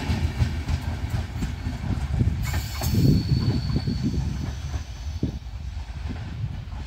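Wheels of a departing Indian Railways passenger express rumbling and knocking over the rails as its last coach pulls away, the sound fading steadily.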